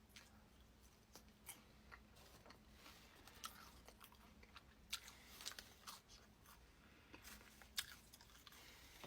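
Faint, close-miked chewing and crunching of food, with irregular clicks from the mouth.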